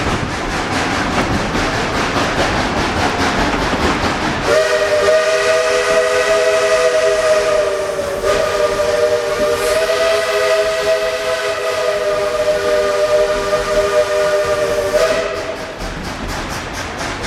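Steam locomotive whistle blowing one long chord-toned blast of about ten seconds, dipping briefly partway through. Before and after it, the steam train runs with a rapid, even rhythmic beat.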